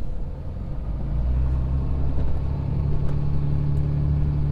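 Motor vehicle engine running with a low, steady drone that grows louder about a second in.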